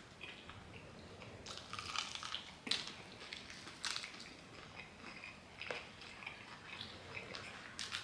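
Biting and chewing crispy fried chicken: irregular crunches and crackles of the fried crust, the loudest a little under three seconds in and about four seconds in.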